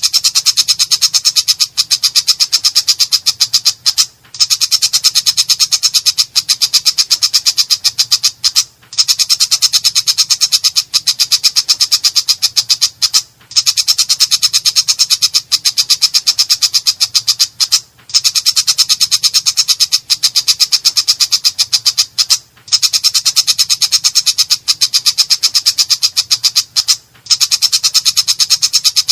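Long-tailed shrike (cendet macan) singing a harsh, rasping chatter: a very fast string of notes in runs of about four and a half seconds, each followed by a brief break.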